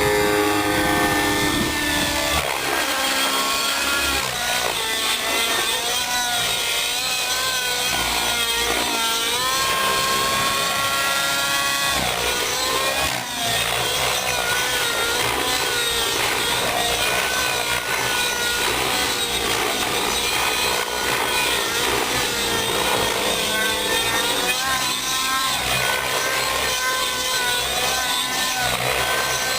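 Nitro glow engine and rotors of a RAVE ENV radio-controlled helicopter in flight, a high-revving whine whose pitch wavers up and down as the helicopter manoeuvres.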